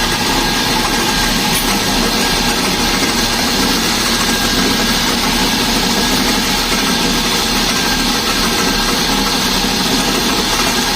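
Mercedes-Benz S300 engine idling steadily with its accessory belt on, a dense running noise from the front of the engine. The mechanics hear an alternator rattle in it, which they take for a failed alternator bearing.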